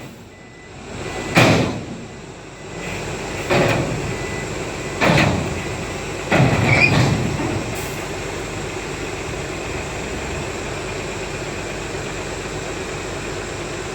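Heavy diesel earthmoving machinery running steadily, with four loud knocks and bangs in the first seven seconds, the last a longer clatter.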